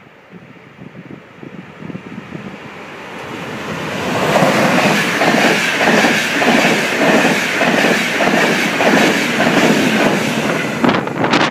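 Passenger train of ÖBB coaches passing through at speed on the near track. It swells as it approaches, then runs as a steady rushing noise with a rhythmic clickety-clack of wheels over rail joints.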